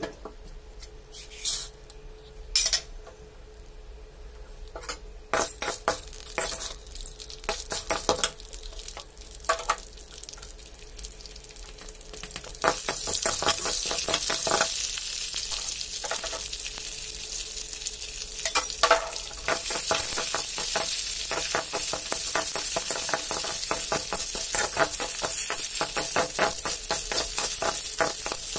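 A metal spatula clinks and scrapes against a kadai. About 13 seconds in a loud sizzle starts suddenly as split urad dal goes into the hot oil, and it keeps sizzling under repeated stirring scrapes while the dal fries.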